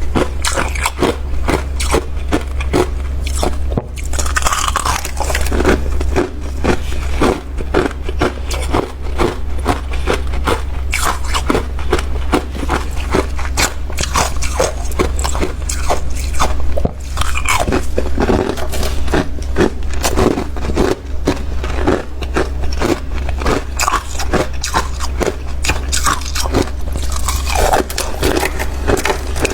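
Freezer frost being bitten and chewed close to the microphone: dense, continuous crisp crunching and scraping, with a steady low hum underneath.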